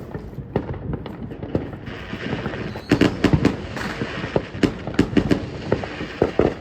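Backyard consumer fireworks crackling: a rapid, irregular run of sharp pops over a hiss, much denser from about three seconds in.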